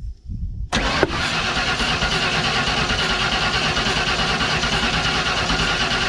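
1992 Ford F150's 302 V8 being cranked over by the starter without catching, starting less than a second in and going on steadily. The engine is being spun over to check for injector pulses on a truck that won't start.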